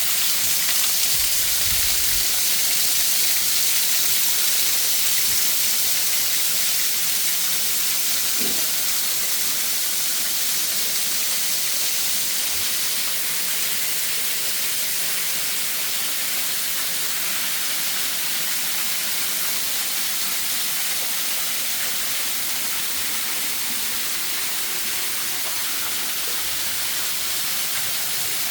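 Waterfall's steady rushing hiss of falling water, even and unbroken, strongest in the high end.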